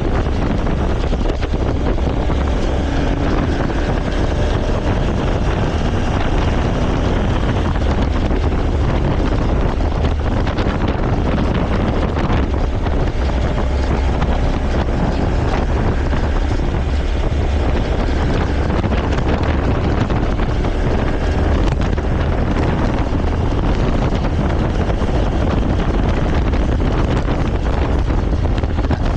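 Heavy wind buffeting the microphone of a riding motorcycle, a steady loud rumble that masks the engine.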